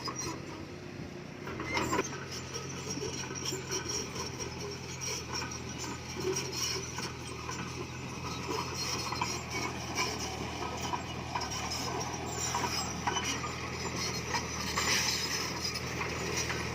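Komatsu crawler bulldozer's diesel engine running steadily, with the metallic clanking and scraping of its tracks and the stone it is pushing.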